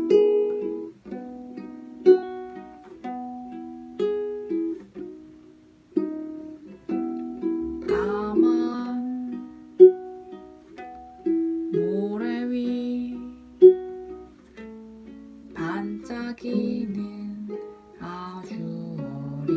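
Ukulele playing the song's introduction: plucked chords struck roughly once a second, each ringing and fading. From about eight seconds in, a wordless melody with sliding, wavering pitch joins it.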